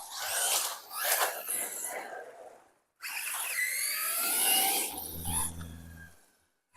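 FTX DR8 RC car passing twice: a rushing, noisy pass, then after a brief gap its electric motor whines in rising glides as it accelerates, with its tyres churning through dry leaves.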